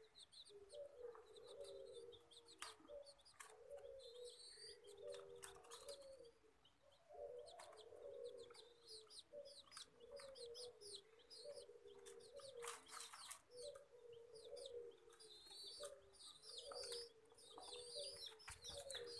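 Faint bird calls: a low call repeated about twice a second, with quick high chirps over it and a few sharp clicks.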